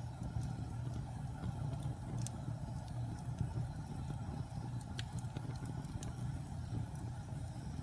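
Wood fire burning in a fireplace: a steady low rumble with scattered sharp crackles and pops, the clearest about two seconds in and again about five seconds in.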